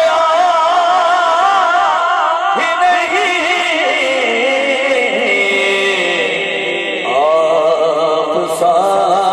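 A naat reciter singing unaccompanied, holding long wavering, heavily ornamented notes on a line of the poem. A new phrase enters about seven seconds in.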